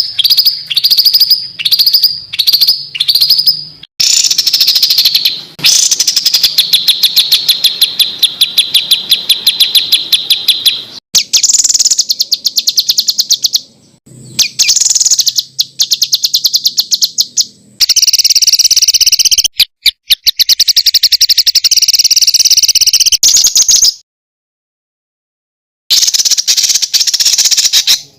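Songbird song made of dense, harsh, rapidly repeated high notes: fast chattering trills in several separate bursts that start and stop abruptly. The opening notes are a handful of down-sweeping calls, about two a second, and a silence of about two seconds falls near the end.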